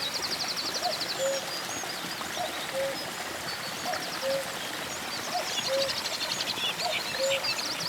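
Forest birdsong: a low two-note call, a short higher note then a lower one, repeats about every second and a half. Above it run high, rapid trills and chirps from small songbirds, over an even hiss.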